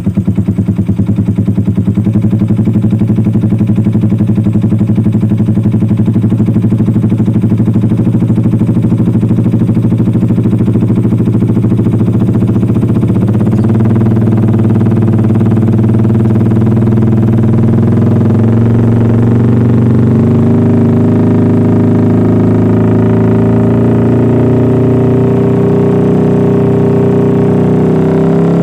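Yamaha Vixion 150cc single-cylinder motorcycle engine running through an aftermarket exhaust, idling steadily with evenly spaced exhaust pulses, then the engine speed wavers and rises gently in the second half.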